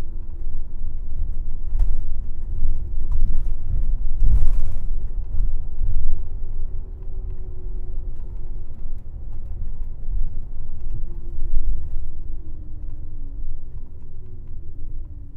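Airport shuttle bus under way, heard from inside the cabin: a steady low rumble of engine and road noise. The engine note drifts lower near the end. A brief hiss-like noise comes about four seconds in.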